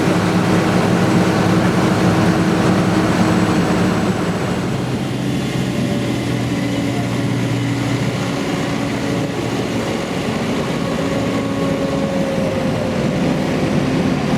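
Tractor engines running steadily, their engine note shifting about four seconds in.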